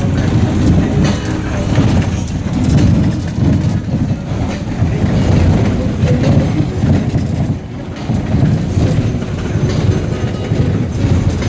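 Road noise inside a car driving slowly over a rough, bumpy road: a heavy low rumble from the tyres and suspension, with irregular rattling and jolts from the cabin.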